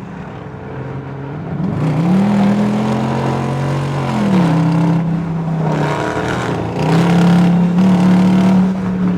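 Car engine under throttle: it revs up about two seconds in and holds, drops back at about four seconds, then climbs and holds again before easing off at the end.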